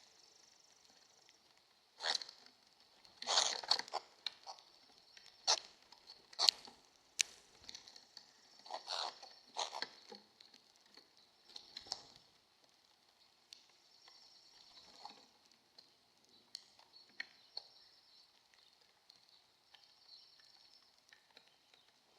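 Birds pecking and scrabbling at feed, irregular sharp taps and clicks, with a busier cluster in the first half that thins out later.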